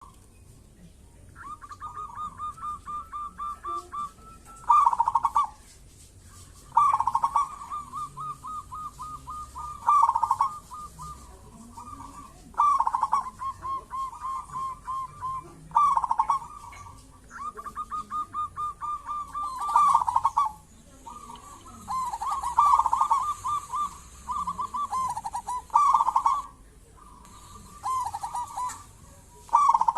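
Zebra dove (perkutut) cooing over and over: each phrase is a quick run of rolling notes ending in a louder coo, repeating about every three to four seconds.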